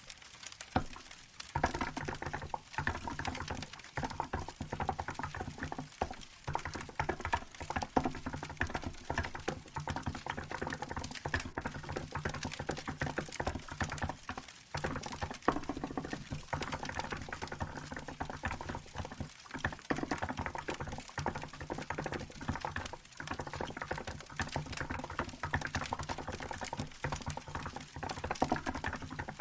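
Continuous typing on a Hansung GK868B mechanical keyboard with milk keycaps: a fast stream of keystroke clacks with a few short pauses.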